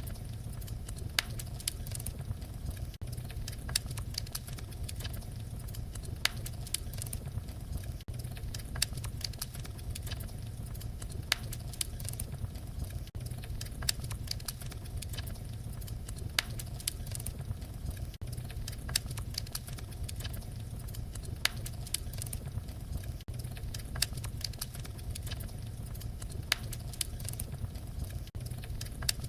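Wood fire crackling: a dense scatter of small crackles over a low steady rumble, with a sharper pop about every two and a half seconds in an evenly repeating pattern.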